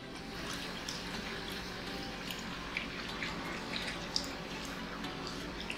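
Close-up chewing and wet lip-smacking clicks of people eating, scattered ticks over a steady low hum.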